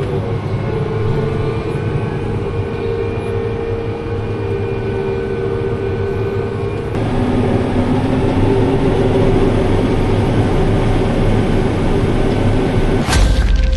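Heavy diesel farm machinery running steadily, with a held whine over the engine drone; the tone shifts about halfway through, and a different sound cuts in just before the end.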